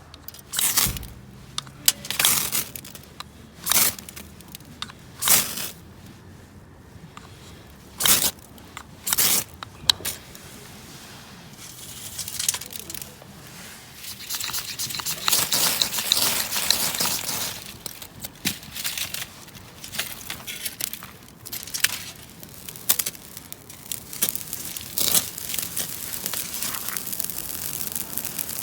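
Plastic packaging of a frozen food being torn open and crinkled: a run of short tearing rips, then a longer stretch of crinkling, with scattered crackles near the end.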